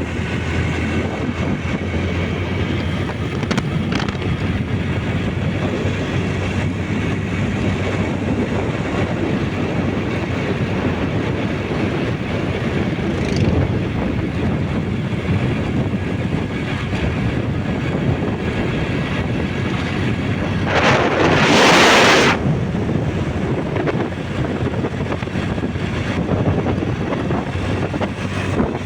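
Motorbike riding along with wind rushing over the microphone, the engine a steady low hum under the wind. About three-quarters of the way through, a brief louder rush of noise cuts in.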